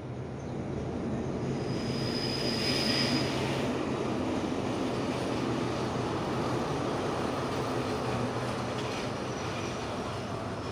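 Diesel locomotive hauling a passenger train past the station: a steady engine hum and rolling rumble that swells in the first second and then holds. A brief high squeal from the wheels or brakes sounds about two seconds in.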